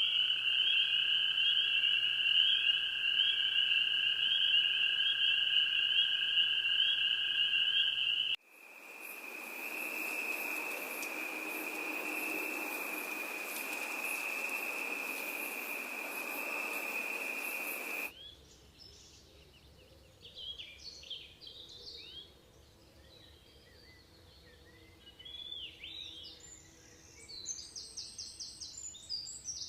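A steady, high-pitched chorus of calling animals, typical of insects or frogs at night. It cuts off abruptly about 8 s in to a different steady high trill over a hiss, and that cuts off about 18 s in to scattered, fainter bird chirps that grow busier near the end.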